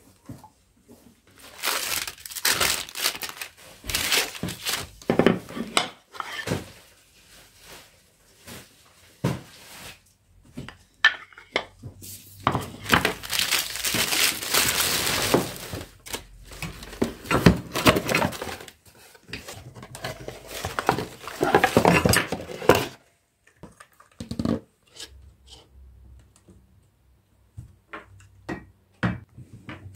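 Irregular spells of crinkling and crumpling, with scattered light knocks between them.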